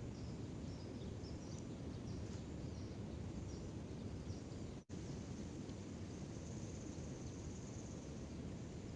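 Outdoor rural ambience: a steady low rumble of background noise with small, faint, high bird chirps in the first half and a faint high buzz later on. The sound cuts out completely for an instant about five seconds in.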